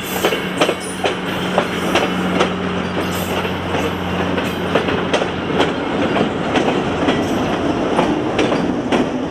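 Passenger cars rolling slowly past on jointed track, wheels clicking over the rail joints about twice a second. Near the end the trailing Alco C424 diesel locomotive passes, its engine adding a low rumble.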